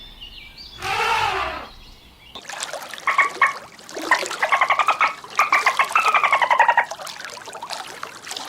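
Animal calls: one drawn-out call about a second in, then a rapid pulsing trill in several phrases, some falling in pitch, against a different background.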